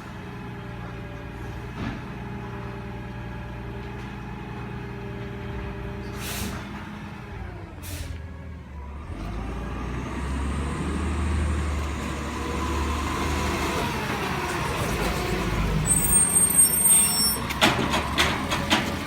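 Recycling garbage truck idling, with two short air-brake hisses. After about nine seconds the engine revs up under a rising whine, and a run of loud clattering knocks follows near the end.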